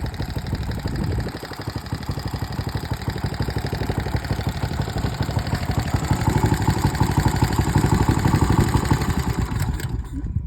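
Mitsubishi GM182L 6 hp single-cylinder gasoline engine running with a steady fast firing beat, growing louder in the second half, then stopping near the end.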